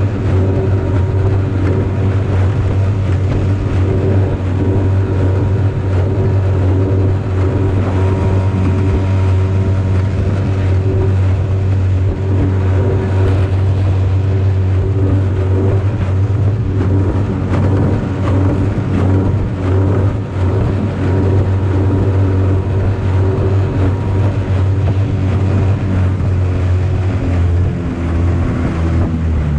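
Yamaha 5 hp two-stroke outboard motor running steadily at full throttle.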